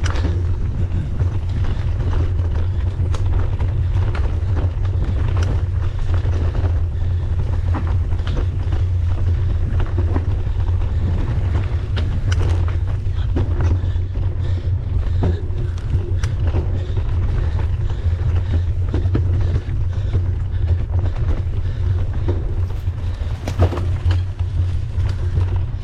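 Wind buffeting the microphone of a mountain bike rider's camera, with a steady low rumble and scattered short clicks and knocks from the bike rattling over the trail.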